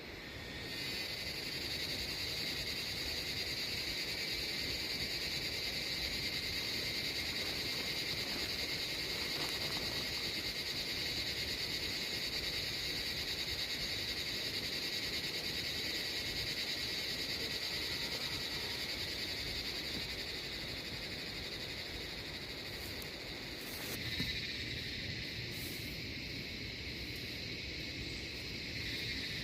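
A steady, high-pitched chorus of calling animals that starts under a second in and holds throughout, easing a little towards the end. A brief louder sound breaks in about 24 seconds in.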